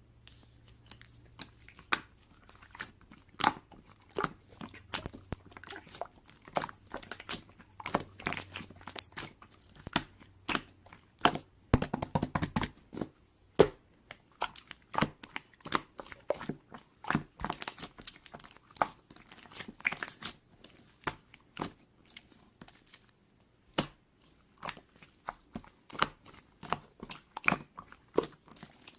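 Hands squishing, pressing and poking slime, making many irregular sharp pops and clicks as air pockets burst. Around twelve seconds in there is a denser, louder run of squishing.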